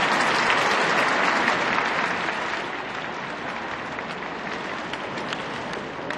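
Large arena crowd applauding, easing off to a lower level a little past two seconds in.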